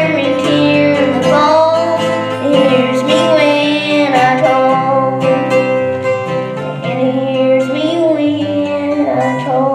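Singing, with long held notes that waver, over acoustic guitar accompaniment.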